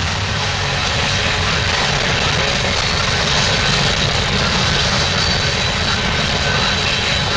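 Loaded coal hopper cars of a freight train rolling past, a steady, dense noise of wheels on rails.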